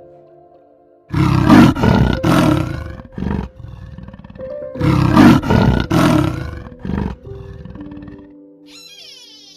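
A big cat roaring in two bouts, each a run of several loud, rough pulses, over soft background music with long held tones.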